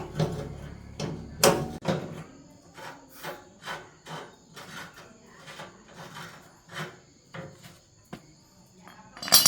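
Irregular light knocks and taps with some scraping, two or three a second, with a low hum that stops about a second and a half in. A loud metallic strike with ringing comes at the very end.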